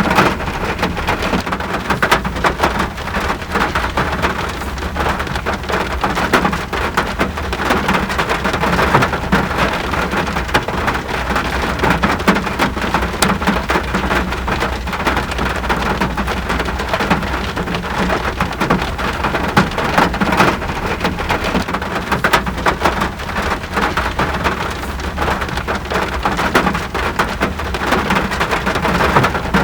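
Steady rain falling, a dense, even patter of drops on surfaces over a constant low rumble.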